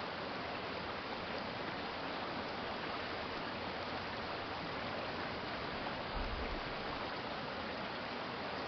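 Shallow city stream flowing steadily, an even rushing of water. A brief low rumble comes about six seconds in.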